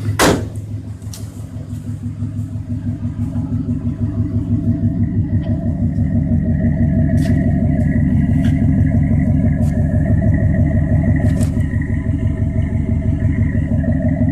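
Chevy 1500 pickup's roller-cam engine with an Edelbrock carburetor idling shortly after a cold start, a steady, even pulse. A single sharp knock comes just after the start; the engine then grows louder over the next few seconds and holds steady.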